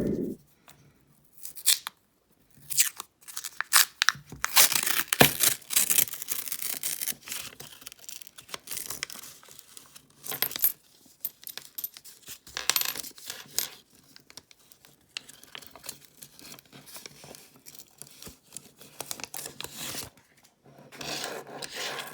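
A paper penny-roll wrapper tearing and crinkling, with pennies clicking and sliding against each other in irregular bursts as the coins are handled and sorted.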